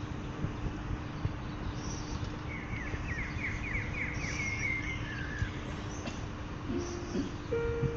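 Outdoor background noise with a steady low hum, and a small bird singing one quick phrase of rapid falling notes in the middle. Near the end a few steady piano notes begin.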